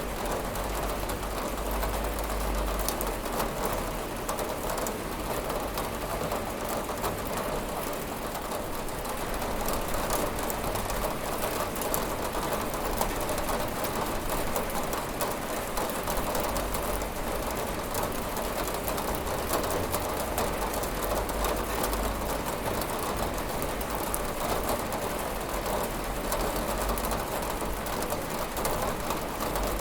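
Steady rain beating on a window pane, a dense patter of individual drops over a continuous hiss and a low rumble.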